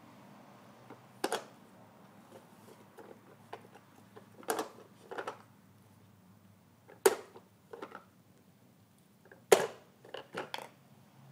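Irregular, scattered clicks and knocks over a faint low hum, with the two loudest knocks about seven and nine and a half seconds in.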